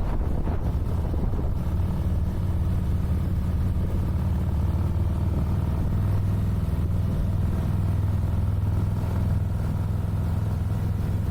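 Harley-Davidson motorcycle's V-twin engine running steadily while under way, a continuous low-pitched sound with no gear changes or revving.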